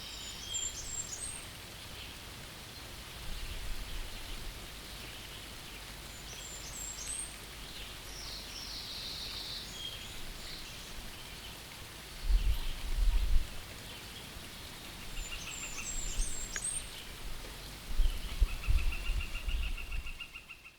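Wet-forest ambience: a steady hiss of light rain, with small songbirds giving short, high chirping phrases a few times and a rapid trill near the end. A few low rumbles come in past the middle and again toward the end.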